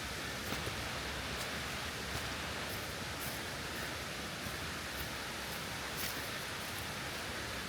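Steady rush of a mountain stream's falling water, an even hiss that doesn't change.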